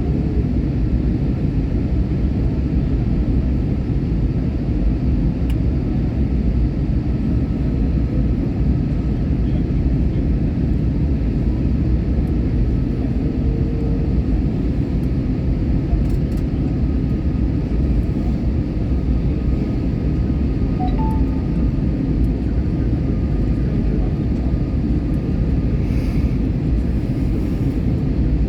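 Steady engine and airflow noise of a passenger airliner, heard from inside the cabin, with faint steady whining tones over a low, even rumble.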